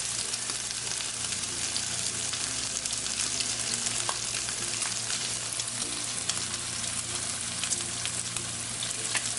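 Diced chicken and chopped bacon frying in a skillet: a steady sizzle with many small crackles and pops.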